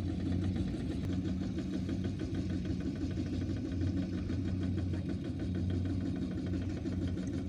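Small farm tractor engine running steadily at an even speed, with a low, fast, regular pulsing.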